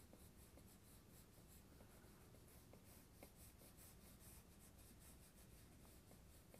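Very faint scratching of a drawing tool on paper, in quick repeated short strokes as waves are sketched in.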